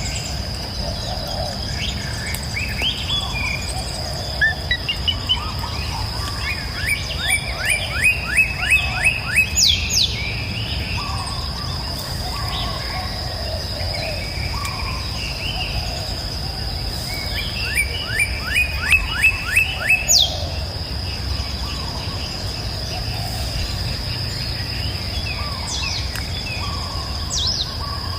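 Songbirds singing: one bird twice gives a quick series of about eight falling notes ending in a high down-slurred whistle, about ten seconds apart, among softer scattered chirps. A steady high whine and a low steady rush run underneath.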